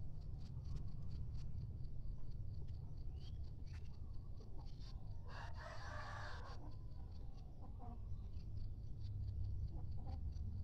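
Kampung chickens calling, with one louder call of about a second and a half just past halfway and a few faint short clucks around it, over a steady low rumble.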